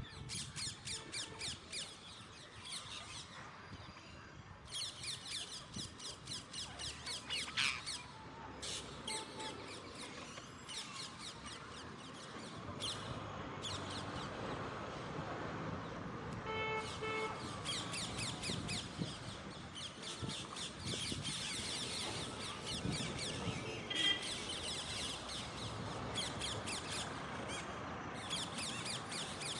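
Birds chirping in rapid, evenly spaced runs of high notes that come in bursts of one to three seconds, over a steady background hiss. A short, higher-pitched call sounds about midway.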